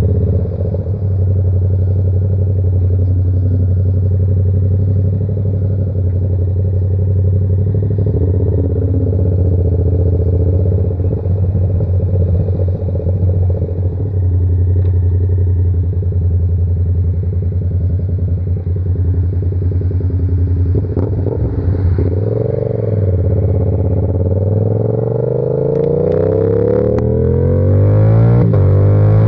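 Yamaha R7's 689 cc parallel-twin engine through an SC-Project exhaust, running at steady cruising revs. About three-quarters of the way through, the revs dip and pick up again, then climb steadily near the end as the bike accelerates.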